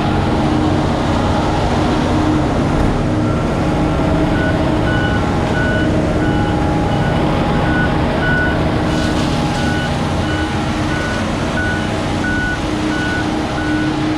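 Terex FD4000 front-discharge concrete mixer truck's diesel engine running steadily, wound up so the drum keeps turning and mixing while parked. From about three seconds in, a reversing alarm beeps about twice a second.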